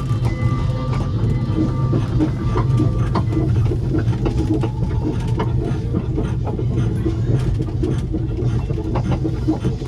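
The small North Pier train running along its track: a steady low drone with scattered clicks and knocks from the wheels on the rails.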